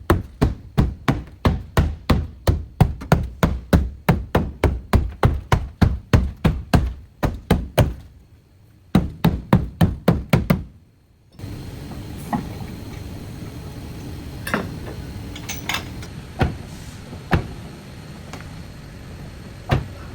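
Repeated hand-hammer blows in an even rhythm, about three a second, with a short pause and a brief second run. About eleven seconds in the hammering stops abruptly, leaving a steady low background with a few scattered knocks.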